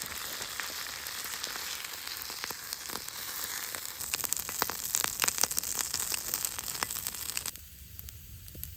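Food sizzling and crackling in a hot pan, a dense hiss full of sharp pops that cuts off abruptly near the end.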